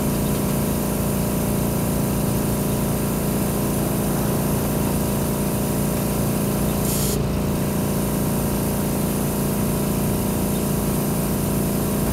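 Service-station air compressor running with a steady hum, and a brief hiss of air about seven seconds in. The hiss is air escaping at the hose tip, which would not grip the bike's valve stem.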